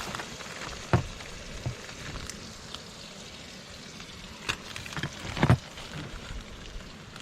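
Trout frying in a pan with a steady sizzle, broken by a few sharp knocks, the loudest about five and a half seconds in.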